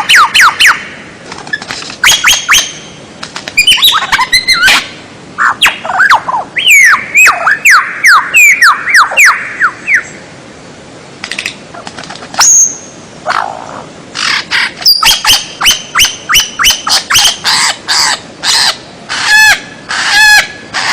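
Loud, varied songbird song: bursts of sharp chips, a quick run of falling whistled notes in the middle, and repeated ringing notes near the end, with brief pauses between phrases. This is the kind of song played as a tutoring recording for songbirds.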